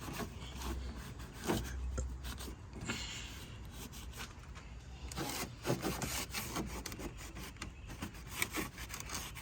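A cloth rubbing and wiping over engine-bay plastic trim in short, irregular strokes, with a few small knocks.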